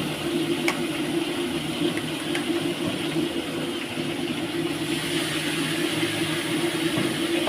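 Fish frying in hot oil: a steady sizzle with a few faint crackles, over a steady low hum.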